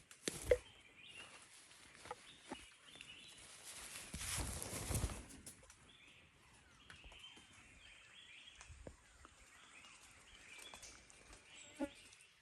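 Forest ambience with faint bird calls, a sharp knock about half a second in, and a swell of rustling about four seconds in.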